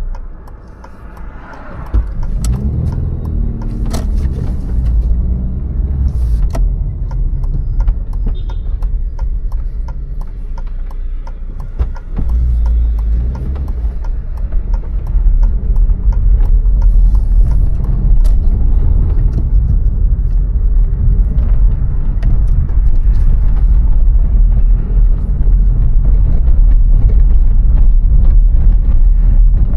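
VW Golf IV 1.6 on the move: a steady low rumble of engine and road noise with light clicks and rattles. It grows louder about twelve seconds in and again a few seconds later.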